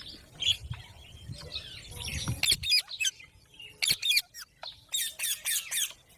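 Green pet parrot chirping and squawking in short, sharp calls, with a cluster of harsh screeches a little after two seconds in and a quick run of about five near the end.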